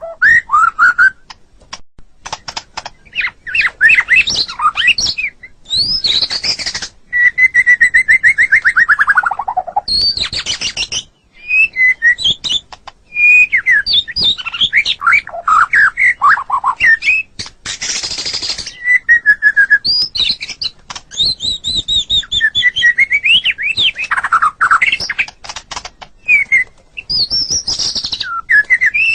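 White-rumped shama (murai batu) singing a long, varied song of quick whistled phrases, trills and harsh buzzy notes, with one long whistle falling in pitch about eight seconds in.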